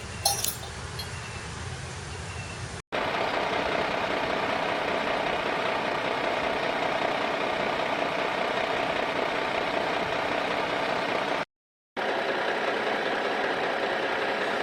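A steady engine-like running sound with faint even tones, starting abruptly about three seconds in and dropping out briefly near twelve seconds. Before it comes a quieter stretch with a single click.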